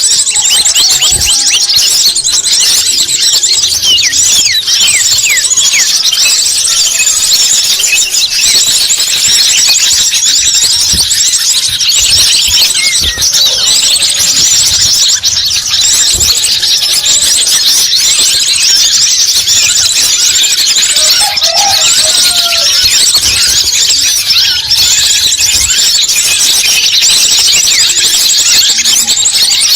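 Bird-lure (pikat) recording: a dense chorus of many small birds chirping and twittering in rapid, high-pitched calls without a break.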